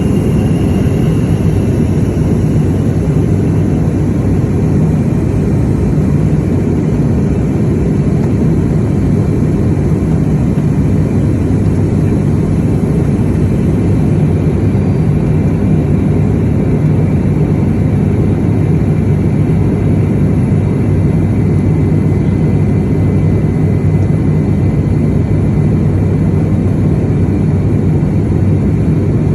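Steady engine and airflow noise of an aircraft in flight, heard from inside the cabin: a deep, even rumble.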